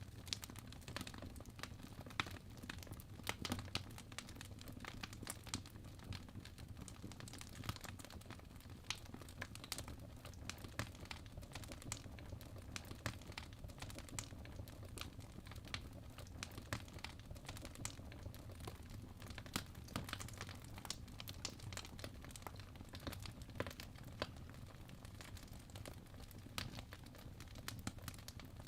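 Wood fire crackling, with frequent irregular pops and snaps over a soft low rumble.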